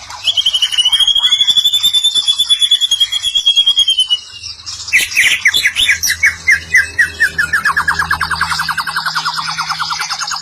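White-rumped shama (murai batu) singing: a long, fast, high trill, then about five seconds in a rapid run of notes that slides down in pitch and climbs again near the end.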